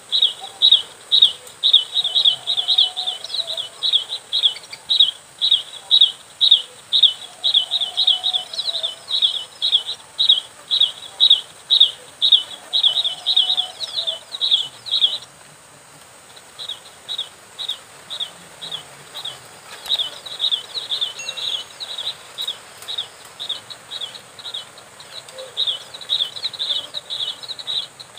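Bar-winged prinia (ciblek) calls: a fast, even run of sharp, high chirps, about three a second. It breaks off briefly about halfway, then picks up again more unevenly.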